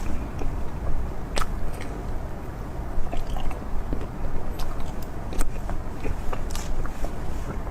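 Close-miked eating: biting and chewing food, with irregular crisp clicks and wet squishing sounds.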